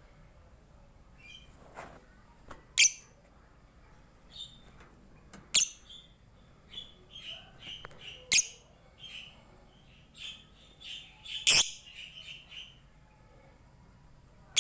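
Lovebird chirping: four loud, shrill calls roughly three seconds apart, with softer twittering chirps between them.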